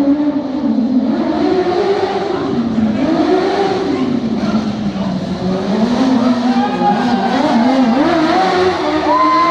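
Racing lawnmower powered by a Honda CBR600 inline-four motorcycle engine, its revs rising and falling again and again as it accelerates and slows.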